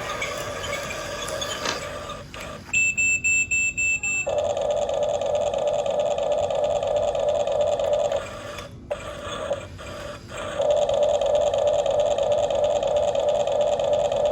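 Radio-controlled model excavator: a rapid electronic beeping, about five beeps a second, starts a little over two seconds in. Then its motor whine runs steadily, drops out for about two seconds past the middle, and starts again.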